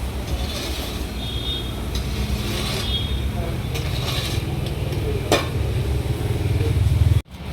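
Steady low mechanical hum, like an engine running, with a single sharp click about five seconds in; the sound cuts out abruptly near the end.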